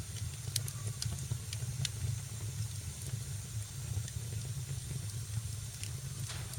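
Fire burning in a fireplace: a steady low rumble and hiss with scattered sharp crackles, several in the first two seconds and one more near the end.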